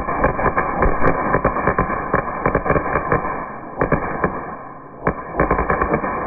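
Fireworks crackling and popping, many sharp cracks in quick succession, easing off briefly about four seconds in before picking up again.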